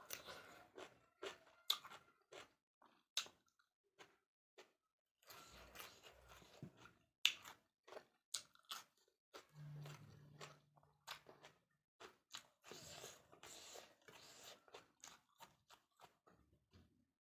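Close-miked eating sounds: chewing of chicken and rice with many short wet clicks and smacks, and a brief low hum about ten seconds in.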